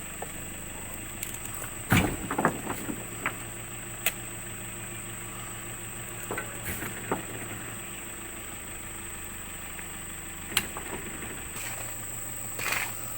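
An engine idling with a steady low hum, with a few sharp knocks and thumps; the loudest knock comes about two seconds in.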